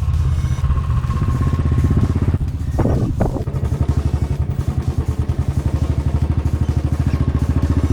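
Motorcycle engine running while riding, a steady, fast-pulsing low note, with two brief sharp sounds about three seconds in.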